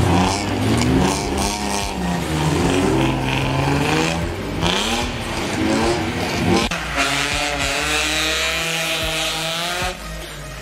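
Car engines revving hard during stunt driving, several at once, their pitch climbing and dropping again and again.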